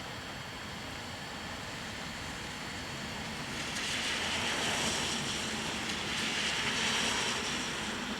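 A vehicle passing on a wet road: a tyre hiss that swells about three and a half seconds in and fades near the end, over a steady background hiss.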